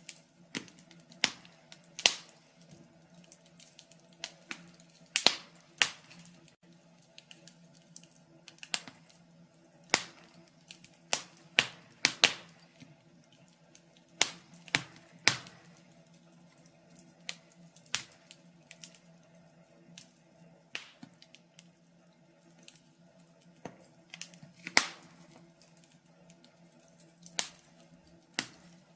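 Wood fire crackling: burning logs snapping and popping in sharp, irregular clicks, a few each second.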